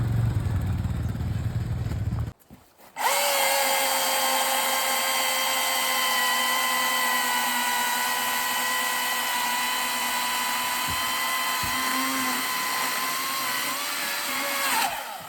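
A low ATV engine rumble for about two seconds, then after a brief break a chainsaw running at full throttle, a steady high whine held for about twelve seconds while cutting wood, dropping off near the end.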